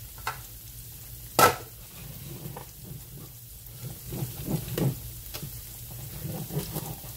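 Salmon patties frying in hot oil in a skillet: a steady sizzle with scattered small crackles, and one sharp pop about one and a half seconds in.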